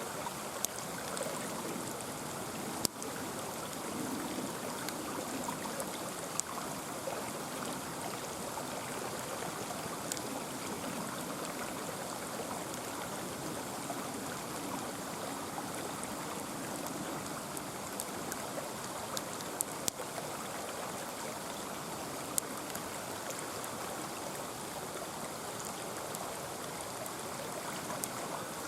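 Mountain stream flowing steadily, with a wood campfire giving an occasional sharp pop or crackle every few seconds.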